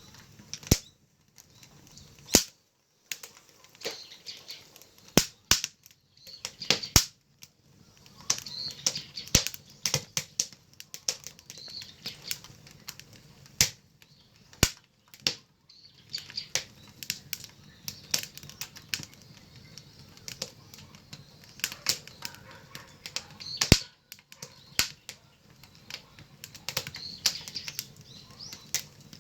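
Firewood burning in an agungi, a traditional Korean ondol firebox: irregular sharp crackles and pops, a few much louder than the rest, over a steady hiss and low rumble of the flames.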